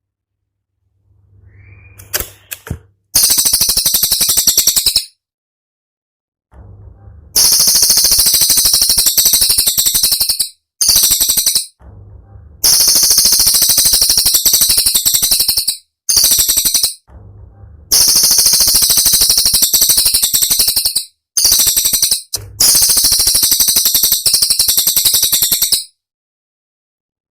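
Cililin songbird giving its sharp, very high-pitched rapid-fire song ('tembakan'). It comes in repeated bursts of about one to four seconds, each a dense fast rattle of notes, separated by short pauses.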